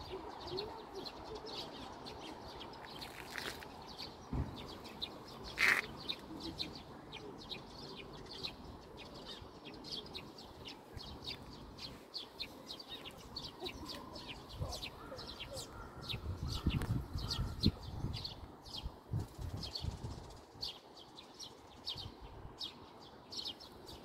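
Small birds chirping from the hedges and trees, a steady run of short, quick, high notes repeated many times over. A few low rumbles come in about two-thirds of the way through.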